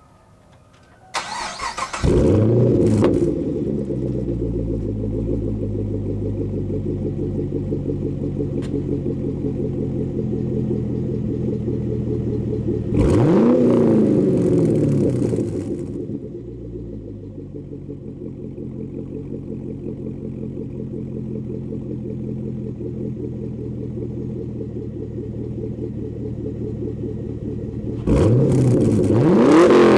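A 2011 Chevrolet Camaro SS's 6.2-litre V8 through a Magnaflow Competition series exhaust is cranked, catches with a brief flare, then settles into a steady idle. The throttle is blipped once, about halfway through, and again near the end, the pitch rising and falling.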